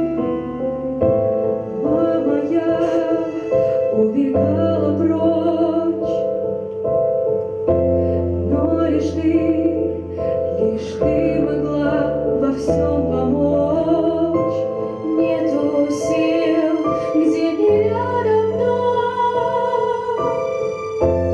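A young female singing voice carrying a slow, sustained melody with vibrato, over piano accompaniment whose chords change every couple of seconds.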